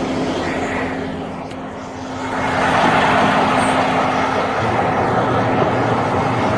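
Motor vehicle running steadily, with a louder rushing noise that swells up about two seconds in and holds, like traffic going by.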